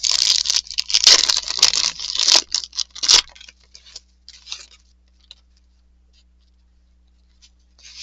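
Trading cards and a paper pack wrapper being handled: dense crinkling and rustling for about three seconds, ending in a short sharp rip, then only a few faint ticks.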